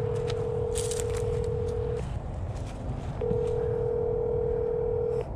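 Telephone ringing tone from a phone on speakerphone while an outgoing call connects: two long steady beeps of about two seconds each, over a low rumble.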